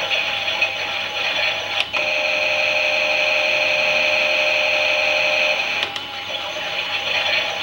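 Klein toy Miele washing machine's small electric motor whining as it turns the drum. A click about two seconds in switches it to a steadier, smoother whine, and a second click near the end brings back the wavering tone.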